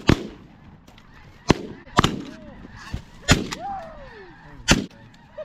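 Shotguns firing at flying snow geese: about five sharp shots at uneven spacing, from several hunters. A few goose honks are heard between the shots.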